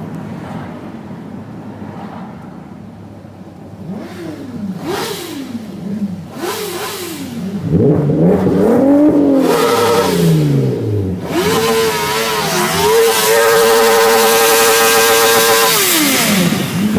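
Sport motorcycle engine revved hard in repeated rising and falling blips, then held at high revs for about three seconds before dropping away, as in a burnout.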